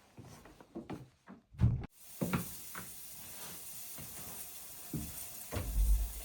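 A few scattered knocks and bumps, like things being handled and set down, with a heavy thump near the end.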